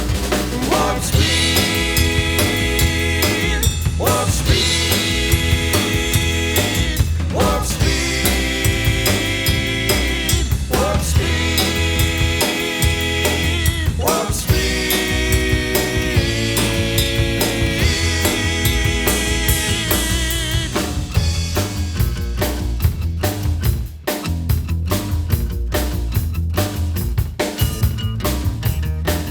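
Instrumental passage of a rock song: a drum kit keeps a steady beat under held chords that change every three to four seconds. About 21 seconds in, the held chords drop out, leaving mostly drums and bass.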